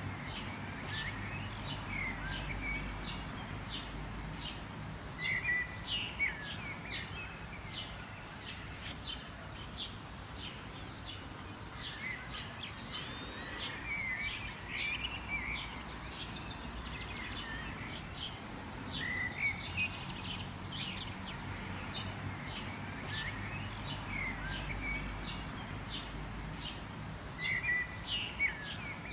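Songbirds chirping and calling, a busy run of many short, high, quick notes from several birds, over a steady low background rumble.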